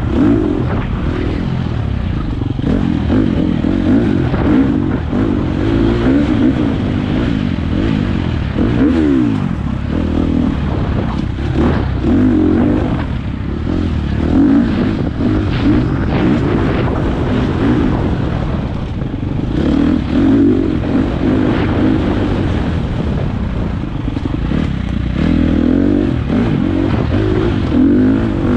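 Single-cylinder four-stroke dirt bike engine running hard on a trail ride, revs rising and falling repeatedly as the rider works the throttle and gears.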